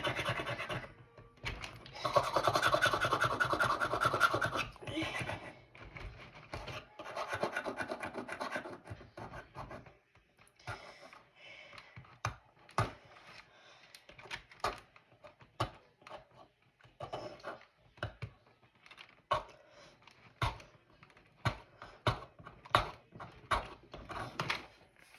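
Scraping at a sticky, glue-like residue on a keyboard: rasping scrape strokes in the first half, longest about two seconds in, giving way after about ten seconds to a run of short scratches and clicks.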